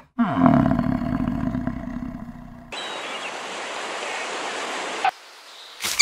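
A bison bellowing: one long, low roar lasting about two and a half seconds, sliding down in pitch at its start. After it, a steady rushing noise.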